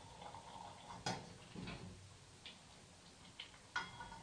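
A few faint, sharp taps or knocks at irregular intervals, heard through a room, the clearest about a second in and another near the end.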